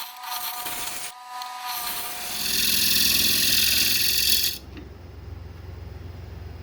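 Carbide turning tool scraping a spinning yellow cedar and walnut bowl blank on a wood lathe, over the whine of the lathe. The cut is loudest for about two seconds in the middle and stops suddenly, leaving a low hum.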